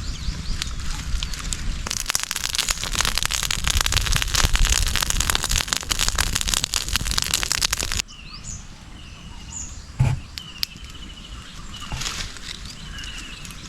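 Dense crackling and sizzling from a wood cooking fire frying eggs on a banana leaf. It cuts off abruptly about eight seconds in to quieter forest ambience, with birds chirping in short repeated trills and a single thump near ten seconds.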